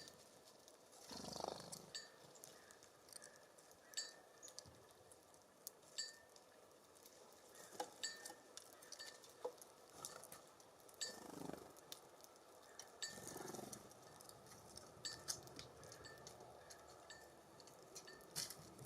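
Birds feeding at a wooden feeder station: scattered sharp taps and clicks of pecking and landing, with a few soft rushes of breeze or wingbeats.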